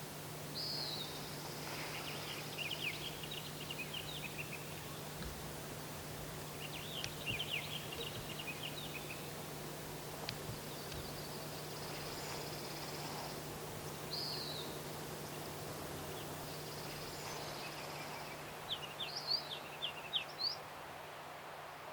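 Wild birds calling: a few short downward-slurred high notes and bursts of quick chips, then near the end a run of sharp, irregular notes. A steady low hum lies underneath.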